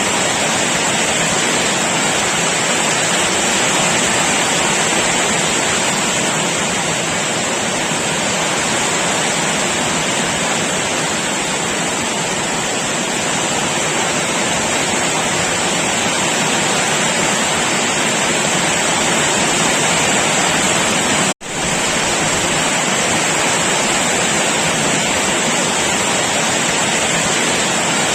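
Heavy rain pouring steadily. About three-quarters of the way in the sound cuts out for a split second and comes straight back.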